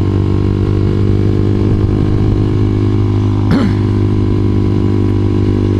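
Honda CBR250R's single-cylinder engine running at a steady pitch while the motorcycle cruises along a road, with a short sharp sound about three and a half seconds in.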